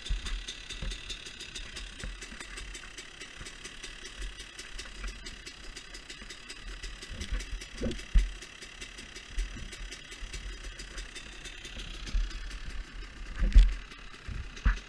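Motocross bike engine running at a steady idle, with occasional low thumps, the loudest about 13 seconds in.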